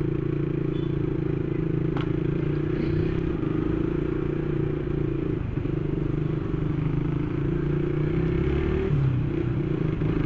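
Motorcycle engine running at a steady low speed while riding, with a single short click about two seconds in.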